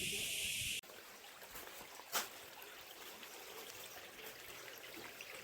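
A loud, steady high hiss cuts off abruptly under a second in. Water trickling follows, with one sharp click about two seconds in.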